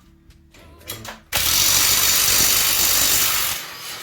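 A power tool run in one steady burst of about two seconds, starting about a second in and dying away shortly before the end, working on metal during work on an engine stand.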